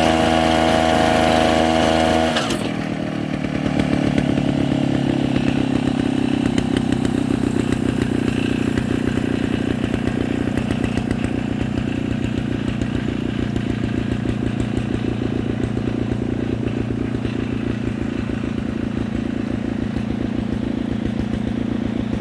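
Small two-stroke engine running at high speed for about two seconds, then dropping abruptly to a slower, pulsing low-speed run that carries on steadily.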